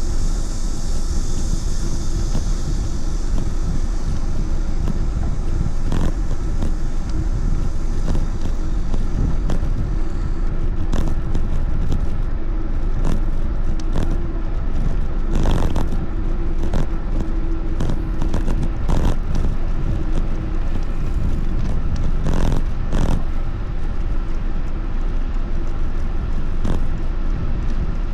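Steady rumble of wind and road noise on the microphone while riding, with a few scattered knocks and rattles.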